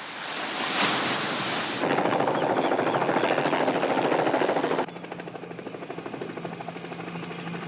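Helicopter rotor chopping rapidly and loudly, after a rising rush of noise. About five seconds in it drops suddenly to a quieter pulsing with a steady low engine hum.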